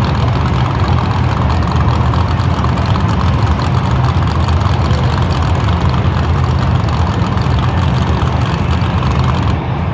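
Monster truck engines running loud and steady at low speed, a deep engine rumble with a little noise on top, dropping slightly in level near the end.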